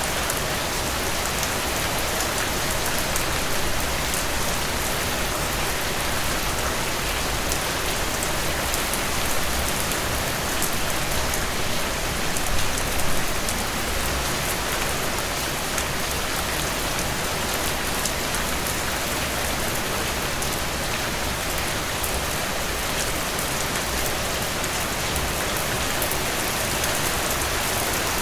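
Heavy rain falling steadily in a dense downpour, a thick even hiss with countless drops pattering on surfaces.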